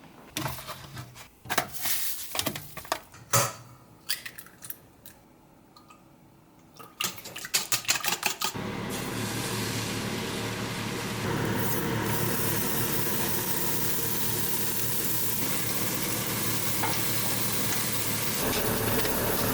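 Clinks and knocks of a utensil against a frying pan, then from about eight seconds in a steady sizzle of bacon and eggs frying.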